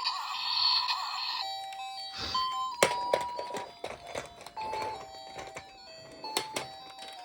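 Toy truck's electronic sound effects through a small speaker: a wavering electronic tone that stops about a second and a half in, then a short tune of stepped beeping notes, with sharp clicks and knocks from the toy being handled.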